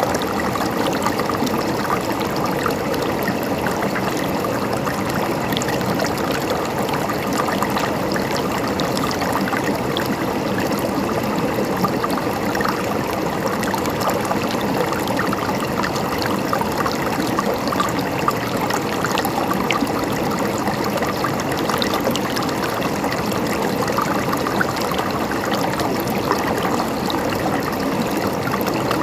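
A river flowing steadily, its water gurgling and trickling over rocks without a break.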